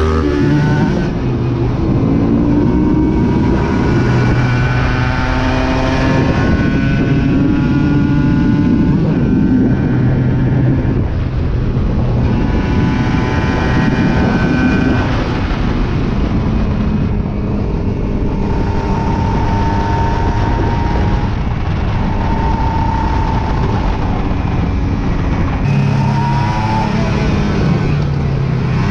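Aprilia RS 125 motorcycle engine under hard riding, revving up and dropping back at each gear change several times, with wind and road noise behind it.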